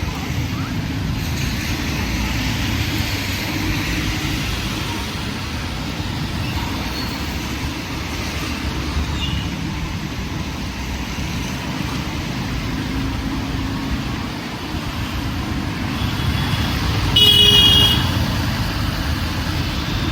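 Steady city road traffic with engines running, and a vehicle horn honked once, a short loud blast near the end.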